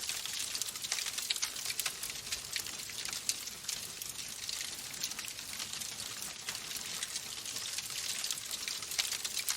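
Wood fire burning in a fireplace: dense, irregular crackling and snapping over a steady soft hiss.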